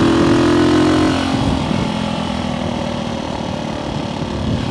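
Small vintage single-cylinder motorcycle engine running under way, heard from the bike as it is ridden. The engine note eases off about a second in, as when the throttle is rolled back for a gear change, then builds again near the end.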